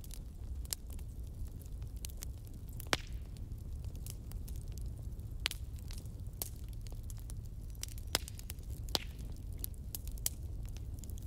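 Fire crackling: irregular sharp pops and snaps, a few louder ones about 3, 8 and 9 seconds in, over a steady low rumble.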